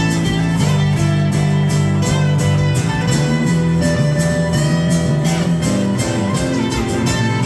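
Live guitar music: an instrumental passage of a song, with steady strumming and sustained chords, no singing.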